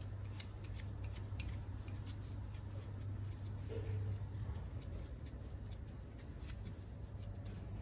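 Light clicks and taps of hand tools on small metal engine parts being taken off a scooter engine, scattered irregularly over a steady low hum.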